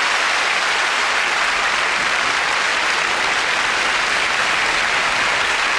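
A studio audience applauding steadily after a song.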